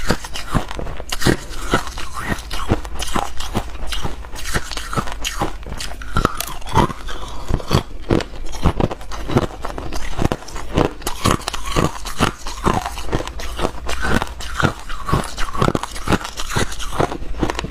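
Ice being bitten and chewed: dense, irregular crunching, several sharp cracks a second.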